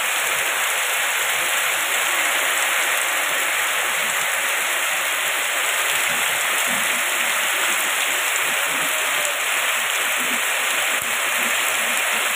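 Heavy tropical downpour falling steadily on roofs and wet pavement: a dense, even hiss with no let-up.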